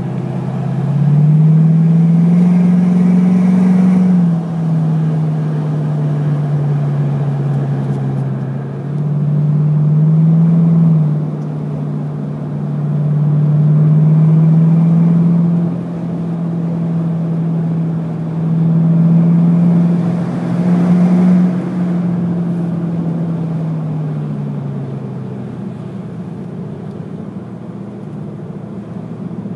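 Jeep Grand Cherokee's 4.7-litre V8 exhaust, through a Magnaflow muffler and cutout, its note rising and falling in several swells of engine speed, then easing back and quieter near the end.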